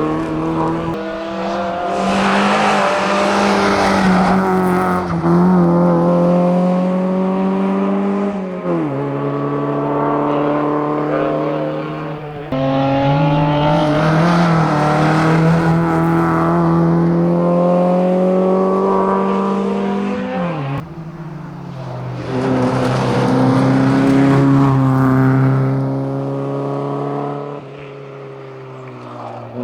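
Fiat Punto hillclimb car's engine under full throttle, rising steadily in pitch as it accelerates. The pitch drops sharply at each upshift, about three times, with louder surges as the car comes closest.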